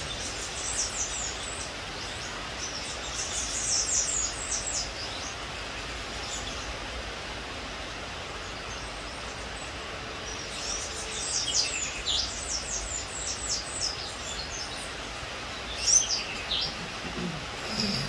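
Small bird twittering: four bursts of quick, high, thin chirps, the longest one about eleven to thirteen seconds in, over a steady background hiss.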